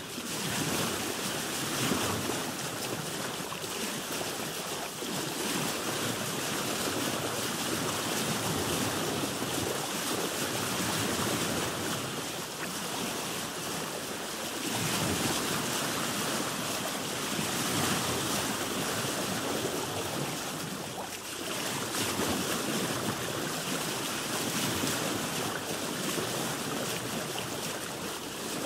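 Sea waves washing around a boat, a continuous rush of water that swells and eases every few seconds.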